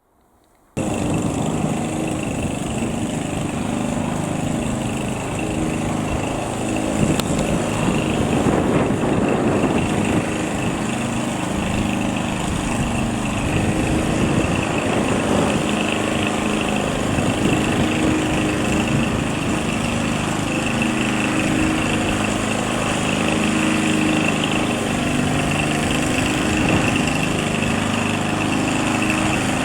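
A small piston engine running steadily, starting about a second in after a cut, with a slightly wavering pitch.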